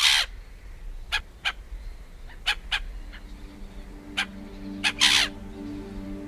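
A series of short, sharp bird calls, loudest and longest at the start and about five seconds in. A calm music bed of sustained low notes fades in from about three seconds.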